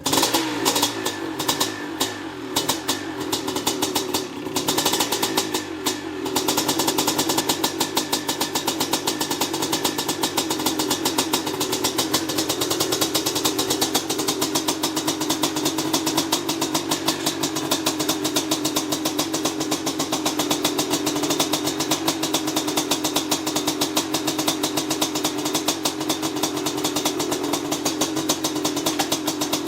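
1993 Maico 500's single-cylinder two-stroke engine running, uneven with separate blips for about the first six seconds, then settling into a steady, rapid idle.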